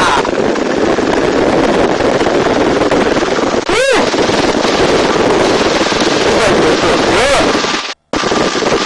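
Helicopter in flight with the doors off: steady rotor and turbine noise with wind buffeting the microphone. The sound breaks off abruptly for a moment near the end.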